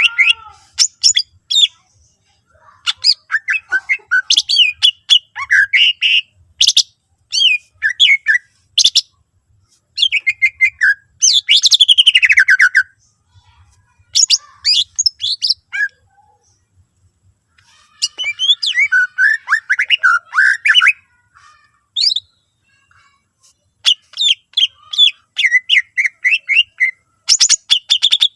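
Cucak ijo (green leafbird) singing loudly in bursts of quick chirps, whistles and trills, broken by short pauses, with a long falling trill about halfway through. It is a full 'gacor' song packed with 'isian', the mimicked calls of other birds.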